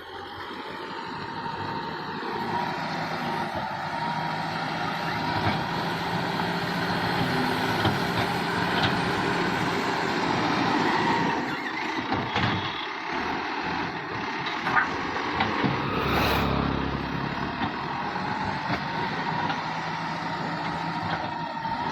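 Tractor diesel engine running steadily under load, with a short rush of noise about sixteen seconds in.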